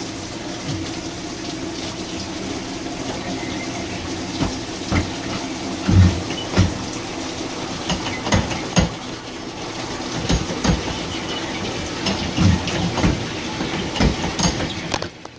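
Water running steadily into a sink, over a low machine hum, with irregular knocks and thumps throughout.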